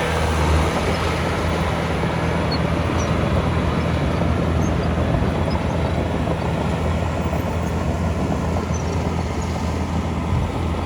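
Heavy diesel earthmoving machinery running steadily under load, a low even engine drone with a broad mechanical clatter over it.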